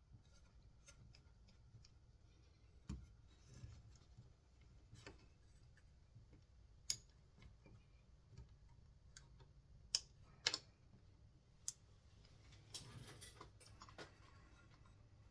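Scattered faint clicks and light taps of small metal parts and hand tools being handled while a chainsaw's recoil starter is reassembled, with a few sharper ticks about seven and ten seconds in, over near-silent room tone.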